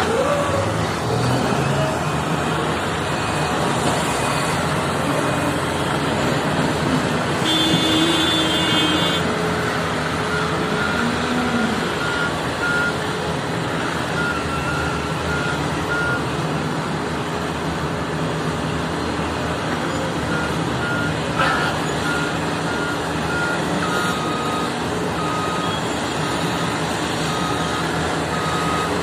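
Heavy construction machinery, a Caterpillar machine and a truck, running continuously. A reversing alarm beeps at an even pace, on and off, from about ten seconds in until near the end.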